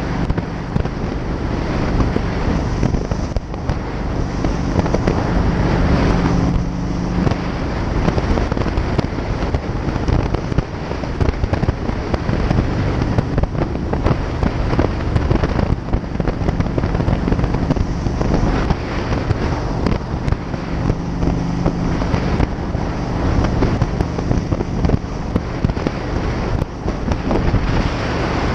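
Harley-Davidson air-cooled V-twin motorcycle engine running under way, a steady rapid popping exhaust pulse that holds at cruising speed, with its pitch rising and settling a few times.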